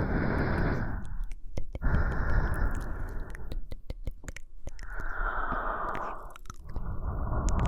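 A woman breathing slowly and audibly close to the microphone, about four long breaths with short pauses and small mouth clicks between them.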